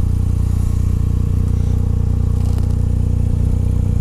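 Bajaj Dominar 400's single-cylinder engine idling steadily, with a light clatter of handling about two and a half seconds in.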